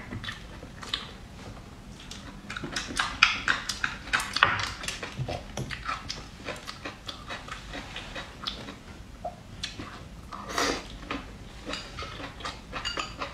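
Close-up mouth sounds of eating clam meat and rice: a run of short, wet chewing clicks and lip smacks, thickest in the first seconds and with a fuller smack or slurp about ten seconds in.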